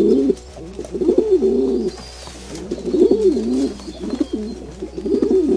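Bird cooing in several low, wavering phrases with short gaps between them.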